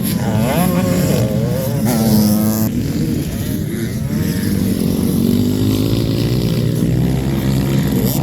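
Motocross bikes racing on the track, several engines revving up and down at once, their pitches rising and falling and overlapping, busiest in the first few seconds.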